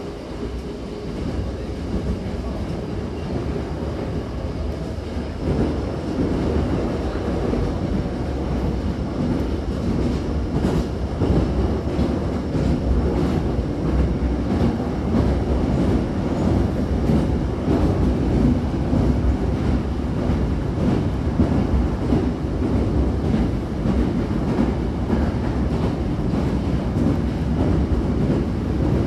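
Hankyu 9000-series electric train running, heard from inside the car at the doors: a steady rumble of wheels on rail that grows louder over the first several seconds as the train picks up speed. Repeated clacks of the wheels over rail joints come through it.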